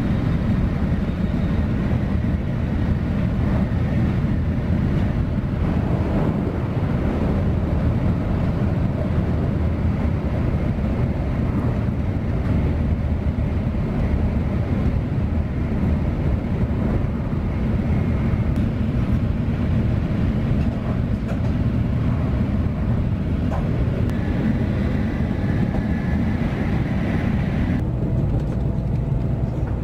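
Shinkansen bullet train cabin noise while running at speed: a steady low rumble with a rushing hiss of air and track over it.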